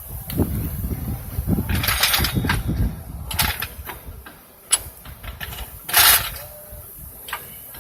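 Metal clicks and knocks of steel ball-joint press adapters and cups being handled and stacked, over a low rumble in the first three seconds. There is a loud short rasping noise about six seconds in.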